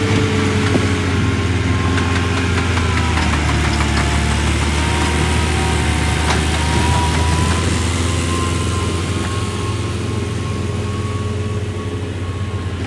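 Excavator's diesel engine running steadily with a deep, even drone, a thin whine above it that wavers slightly in pitch, and a few light clicks.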